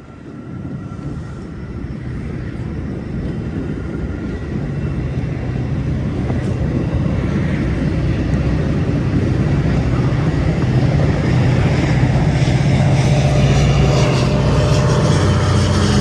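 EMD F40PH-3 diesel locomotive of a departing Metra commuter train, its engine running under load and growing steadily louder as it comes nearer.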